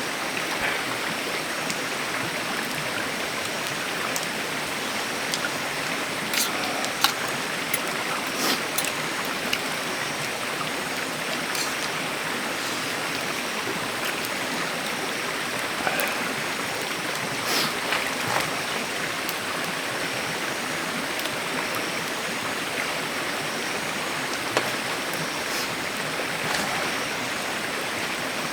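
Running water, a steady rushing hiss, with a few faint sharp clicks or splashes here and there.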